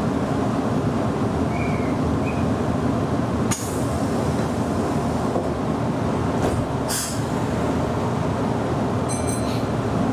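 Meitetsu local train running along the track, a steady rumble of wheels and running gear. A sharp knock comes about three and a half seconds in, a short burst of high noise around seven seconds, and a brief high ringing tone near the end.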